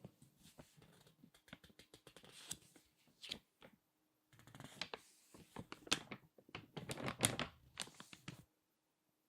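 Crinkly glossy magazine pages being handled and squeezed by hand, a dense run of sharp paper crackles. Lighter crinkling and a pause for the first few seconds, then a louder, busier squeezing from a little past the middle that stops shortly before the end.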